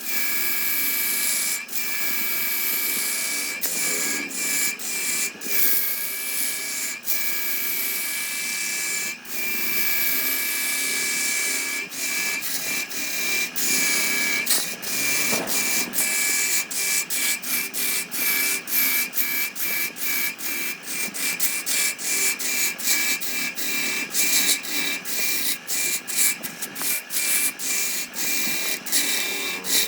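A power tool working wood, with a steady high whine over a hissing cutting noise. The sound is broken by many brief cut-outs, which come more often in the second half.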